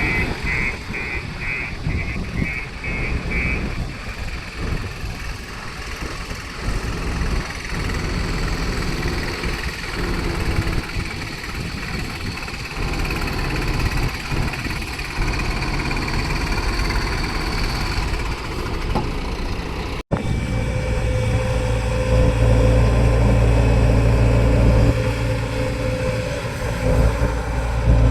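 Heavy diesel engines of an excavator and dump trucks running at a soil-loading site, with a rapid repeating beep during the first few seconds. About two-thirds of the way through the sound cuts abruptly to a louder, steadier engine hum.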